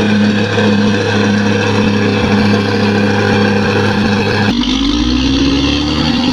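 Bulldozer's diesel engine running hard and steadily. About two-thirds of the way in the sound changes abruptly, and the engine note then climbs slowly as it revs up.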